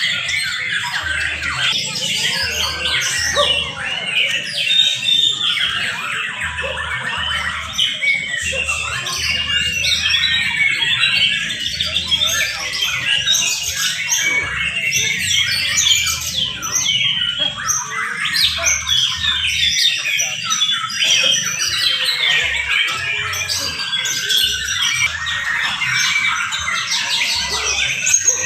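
Many young white-rumped shamas (murai batu) singing at once in a song contest: a dense, continuous tangle of rapid, overlapping notes.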